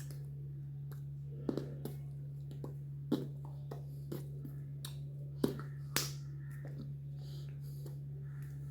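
A steady low hum with irregular sharp clicks and taps scattered through it.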